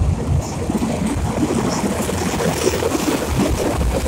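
Freight train of fuel tank wagons rumbling across a steel truss railway bridge at close range, a steady low rumble with faint high squeaks and clicks from the wheels on the rails.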